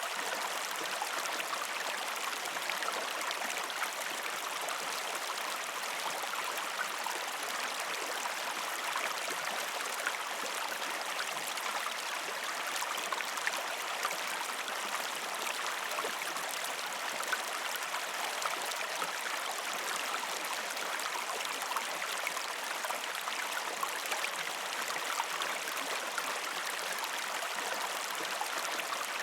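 A river stream flowing steadily over rocks: an even rush of water, dotted with small splashes and gurgles.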